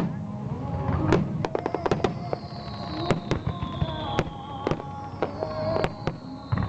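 Aerial fireworks shells bursting in quick, irregular succession, a dozen or so sharp booms and cracks. Music plays over loudspeakers underneath.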